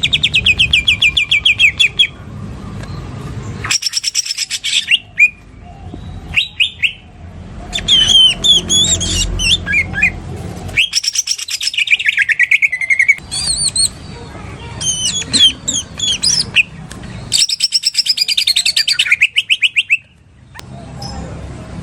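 Cucak ijo (green leafbird) singing a lovebird-style 'ngekek' isian: repeated bursts of fast, sharp trilled notes, each lasting one to three seconds, broken up by sweeping whistled phrases.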